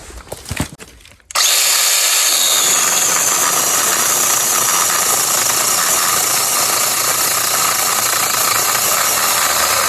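Velotrex 8-inch mini cordless chainsaw starting up suddenly about a second in and running steadily as it cuts through a red maple limb about 3 inches thick.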